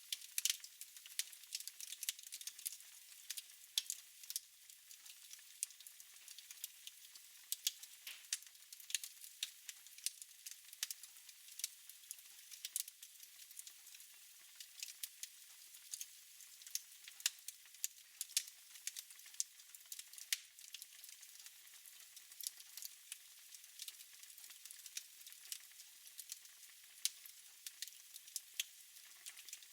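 Wood fire crackling in a fireplace: a soft hiss studded with many sharp, irregular pops and snaps, several a second, that keep on steadily.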